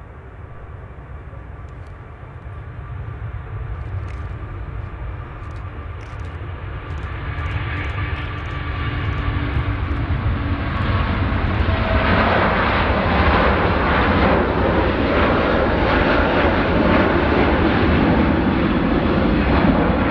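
Jet airliner engines growing steadily louder as the aircraft draws closer: a low rumble that builds into loud, full engine noise from about halfway through and stays loud to the end.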